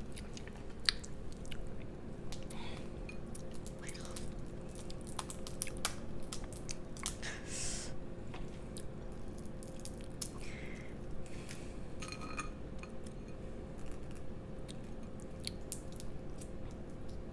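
A person chewing and biting food close to the microphone: many small sharp clicks and crunches, with a few short wet hissy sounds. A faint steady hum runs underneath.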